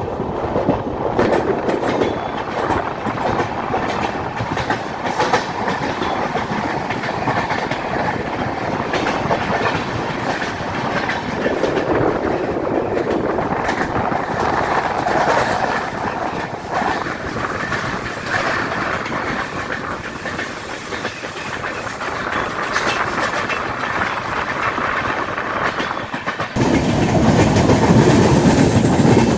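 Passenger train running on the line, heard from on board: the steady rumble and clickety-clack of coach wheels over the rails. Near the end a louder, lower rush of noise comes in suddenly.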